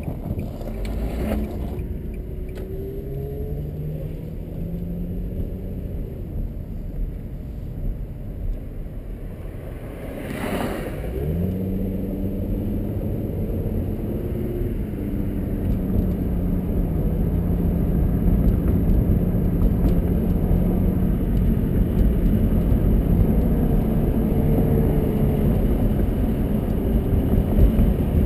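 2004 Infiniti G35 coupe's 3.5-litre V6 heard from inside the cabin under way, over steady road noise. The engine note climbs as the car accelerates, breaks briefly with a short whoosh about ten seconds in, climbs again, then settles to a steady cruise that grows slowly louder.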